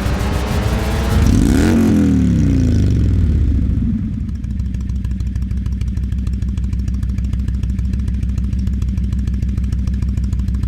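Indian Thunder Stroke 111 air-cooled V-twin motorcycle engine revved once in the first few seconds, its pitch rising and falling back, then settling into a steady idle.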